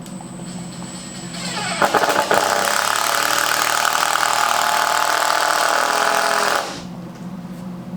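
An electric power tool's motor speeds up about a second and a half in, runs steadily and loudly for about five seconds, then cuts off. A low steady hum sits beneath it.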